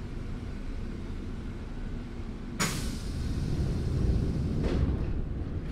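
Nagoya Municipal Subway 3000 series train running, heard from on board: a steady rumble of wheels on rails, with a sudden hiss about two and a half seconds in.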